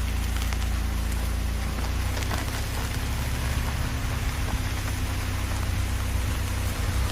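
Car driving on a dirt road: a steady low rumble of engine and road, with the tyres crackling and hissing over the loose dirt and grit.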